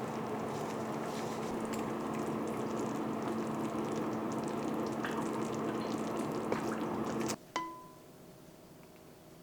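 Water running steadily from a kitchen tap, shut off abruptly about seven seconds in, followed at once by a single light ringing clink.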